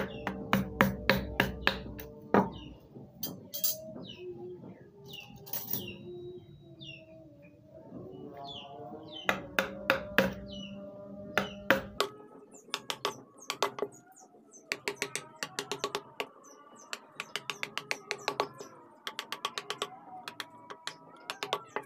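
Mallet tapping a carving chisel into wood in quick, irregular runs of light taps. Birds chirp in the background.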